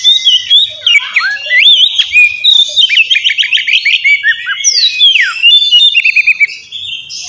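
Oriental magpie-robin (kacer) singing a loud, varied song of quick runs of repeated notes and falling whistled slides. It eases off near the end.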